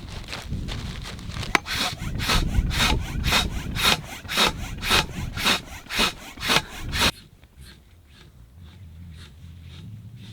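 Hand saw cutting wood in even back-and-forth strokes, about two a second. About seven seconds in the loud strokes stop suddenly, and fainter strokes go on at the same pace.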